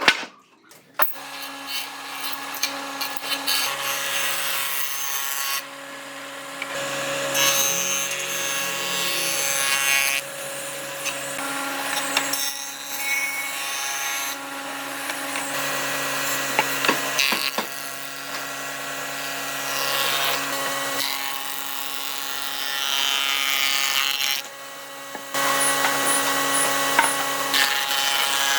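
Electric power tool working wood: a steady motor hum under the noise of the cutting, changing abruptly several times.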